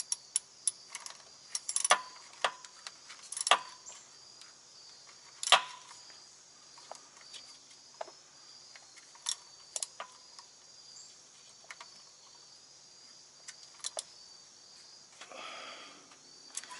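Hand tools clicking and clinking on metal while a wire is fastened to a truck starter terminal: scattered sharp metallic clicks, a few with a short ring, the loudest about five and a half seconds in. A faint steady high-pitched hum runs underneath.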